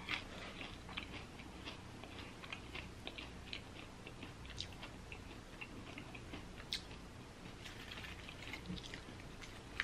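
Faint chewing of fried chicken close to the microphone: scattered soft mouth clicks and smacks at an irregular pace.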